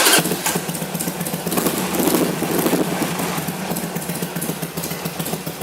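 A 2006 Harley-Davidson Sportster XL883C's carbureted 883 cc V-twin fires right up and runs steadily. Its exhaust is a little bit louder than normal, which is typical of a stock exhaust with the baffles removed, though that is not certain.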